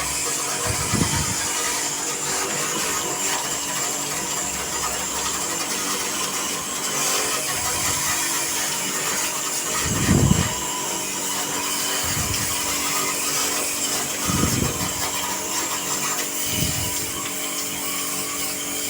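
Motor-driven water pump of a washer running steadily while its jet sprays the air conditioner's outdoor fan unit to wash off dust, with a few short low thumps.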